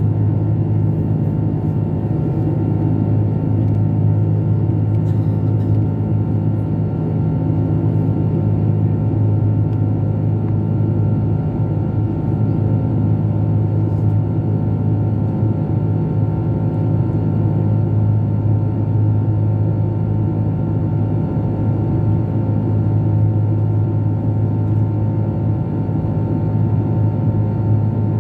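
Airliner cabin noise: the Airbus A330-300's Rolls-Royce Trent 700 engines and airflow making a loud, steady drone with a low hum and several steady tones through it, heard from inside the cabin.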